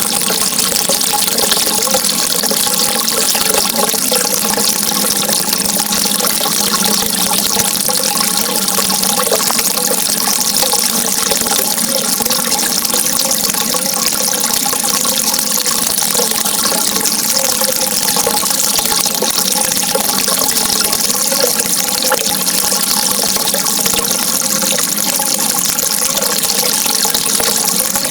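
Running water with a steady, unbroken rush.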